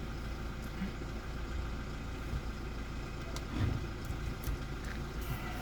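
Safari vehicle's engine idling with a steady low hum.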